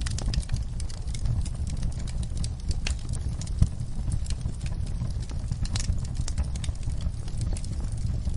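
Wood fire crackling in a fireplace: frequent sharp pops and snaps of varying strength over a steady low rumble, with one louder pop about three and a half seconds in.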